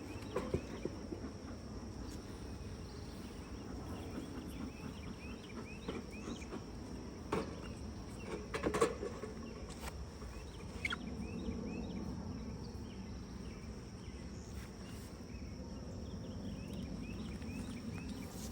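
Honey bees humming steadily around an open hive while a frame is worked loose and lifted out, with a few sharp knocks and scrapes of wood and hive tool, the loudest about seven and nine seconds in.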